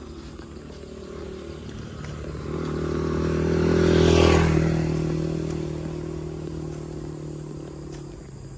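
A motor vehicle drives past, its engine running steadily; it grows louder, is loudest a little after four seconds in, then fades away.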